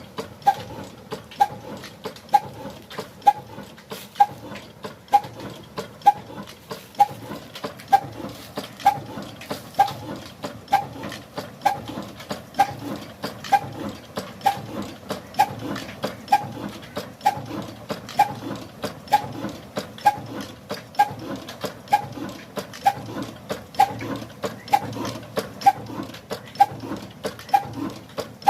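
Old Ruston single-cylinder 'black engine' running slowly and steadily, giving a regular thudding beat about once a second with lighter mechanical clicks between beats.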